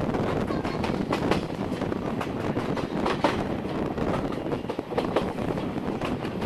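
Steam-hauled passenger train running along the track, heard from on board: a steady rumble of the coach with scattered sharp clicks from the wheels on the rails.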